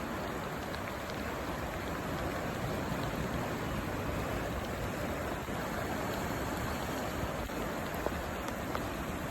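Steady hiss of heavy storm rain pouring down, an even wash of noise with a faint knock about eight seconds in.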